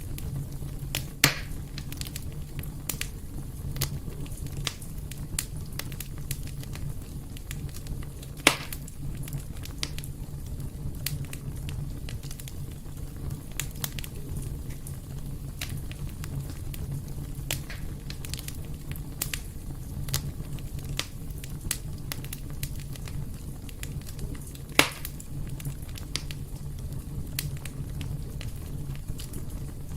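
Fire in a fireplace crackling steadily with many small pops and snaps over a low steady rumble. Three louder pops stand out: about a second in, about a third of the way through, and near the end.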